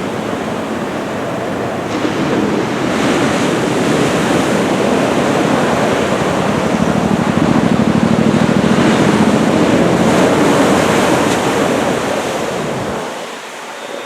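Ocean surf breaking and washing from a typhoon-driven swell, with wind buffeting the microphone. The noise swells louder through the middle and drops off suddenly near the end.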